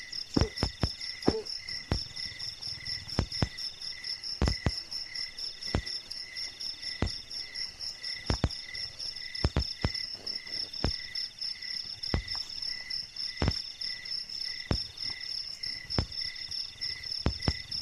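Night chorus of crickets: several steady, rapidly pulsing trills at different pitches. Irregular sharp knocks come every second or so.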